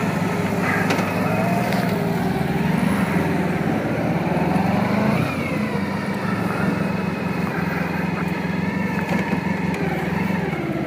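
Motorcycle engine running steadily at idle, its pitch shifting slightly about five seconds in.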